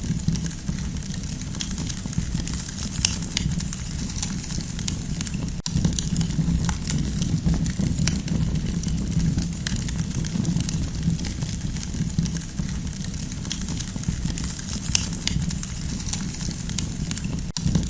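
Campfire burning, with irregular crackles and pops over a steady low rumble and hiss. The sound breaks off for an instant about five seconds in and again near the end.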